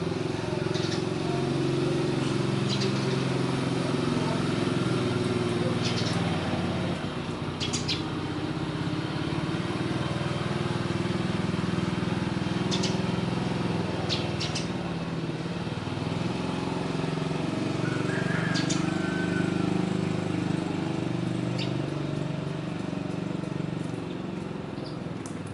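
A motor vehicle engine running steadily close by, its pitch wavering slightly, with a few brief sharp high sounds over it.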